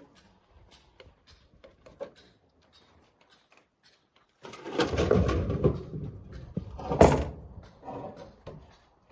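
Stones clicking and knocking lightly, then about halfway through a loud rush of rock and rubble tumbling for a second or two, followed by a single heavy knock about seven seconds in.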